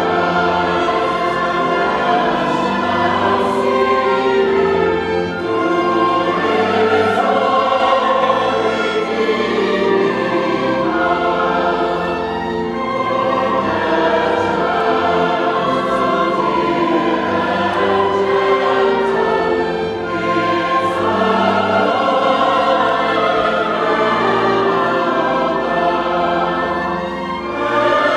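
Choir singing sacred choral music with instrumental accompaniment, in long sustained phrases with short breaths between them.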